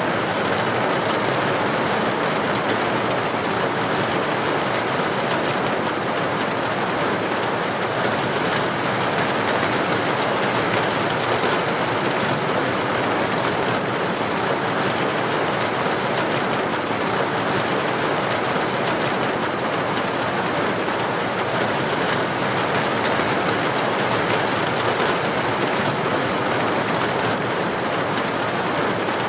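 Heavy rain falling steadily on a paved street: a dense, even hiss with no thunder.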